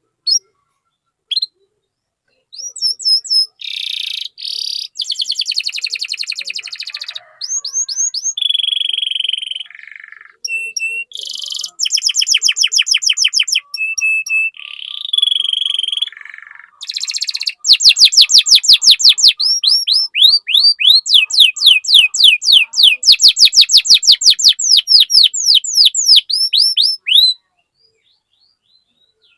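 Domestic canary singing: two short chirps, then a long song of changing trills and rolls, each phrase lasting a second or two, closing with a fast run of repeated high sweeping notes that stops near the end.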